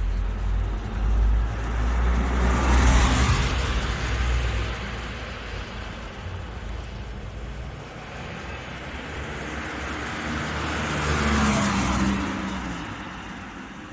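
Two cars passing by one after the other, the first loudest about three seconds in and the second about eleven seconds in, each swelling and fading with a low rumble and tyre hiss.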